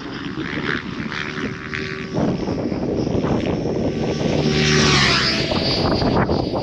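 Electric RC helicopter flying, its rotor and motor whine sweeping down and back up in pitch as it passes about five seconds in.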